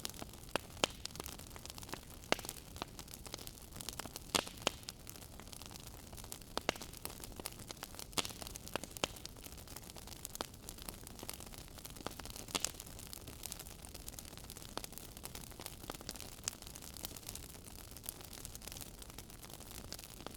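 Wood fire crackling in a fireplace: irregular sharp pops and snaps, several a second at times, over a soft steady hiss.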